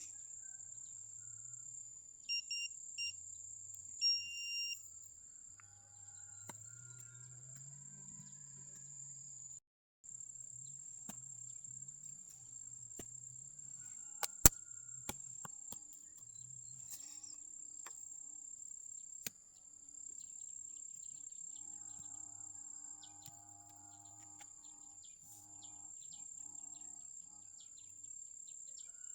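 A metal detector beeping in short high-pitched bursts, twice a few seconds in, over a steady high trill of night insects; a sharp click sounds about halfway through.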